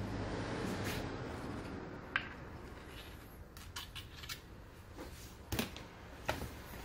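Handling noises while greasing an angle grinder's gear housing: a soft rubbing noise over the first two seconds, then scattered small clicks and taps.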